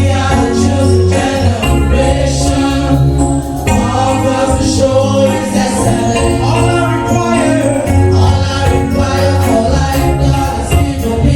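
Live gospel music: a vocal group singing over a band, with a bass line moving underneath and a jingling tambourine keeping the beat.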